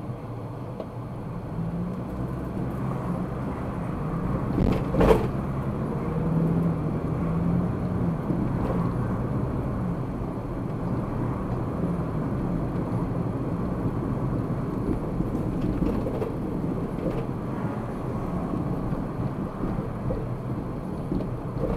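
A car driving, with steady engine and road noise and a single sharp knock about five seconds in.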